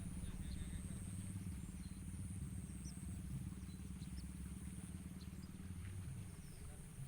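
A small engine running steadily with a low rumble, under a constant high insect buzz. Short, thin bird chirps come scattered through it.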